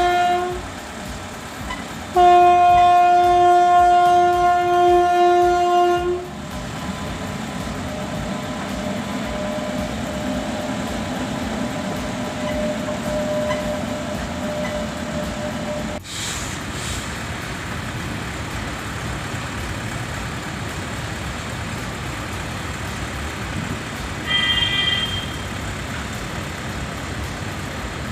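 Train horn sounding: the tail of one blast, then a steady blast of about four seconds. Then the steady running noise of a train, and near the end a brief, higher-pitched horn toot.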